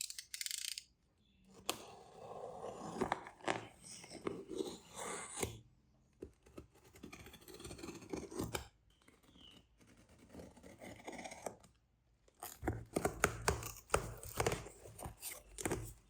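Cardboard packaging of a graphics card being handled: several bouts of scraping and rustling separated by short pauses, with sharp taps. In the last few seconds the handling gets busier, with clicks and low knocks.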